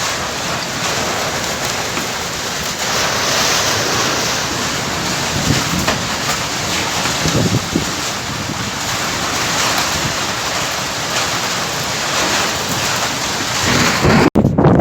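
Strong storm wind during a sandstorm, rushing steadily and gusting, buffeting the microphone. The sound cuts out for an instant near the end.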